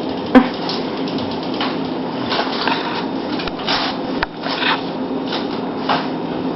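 Scattered small knocks, clicks and scuffs over a steady hum, with a sharp knock just after the start and a sharp click about four seconds in.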